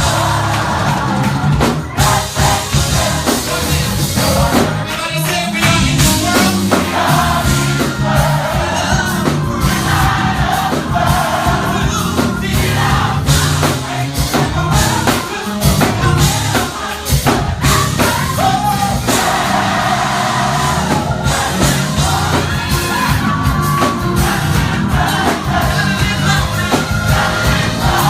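Live gospel choir singing with a full band: drums, bass and keys, with crowd voices and shouts mixed in.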